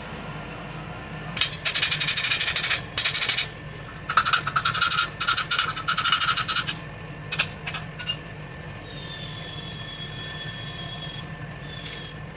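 Steel tools scraping and rattling rapidly against a hot steel axe blank in two bursts of a few seconds each, then a few single clicks, over a steady low machine hum.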